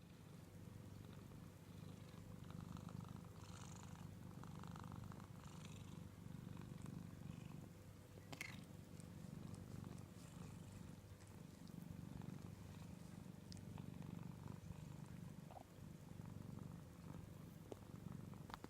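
Domestic cat purring steadily on a lap, a soft continuous low rumble.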